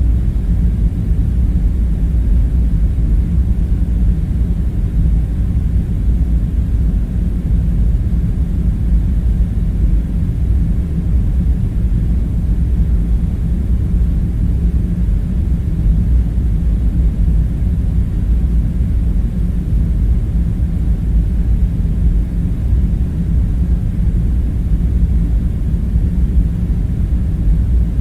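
Steady low rumbling drone with a faint hum in it, unchanging throughout: the background machinery hum of an underground bunker ambience.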